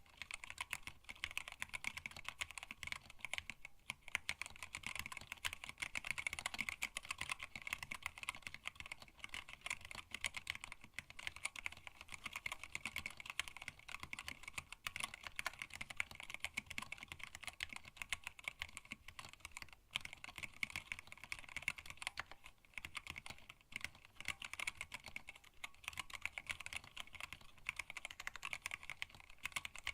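Continuous fast typing on a hand-wired split mechanical keyboard with Tealios linear switches and PBT keycaps in an acrylic case: a steady stream of keystroke clacks with only brief pauses.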